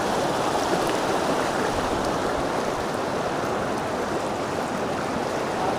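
Rushing river water: a steady rush of current flowing over rocks.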